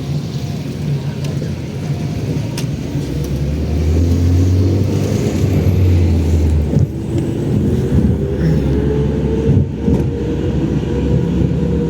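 Car engine running with road noise. It speeds up with a deep hum through the middle, then its note climbs slowly over the last few seconds.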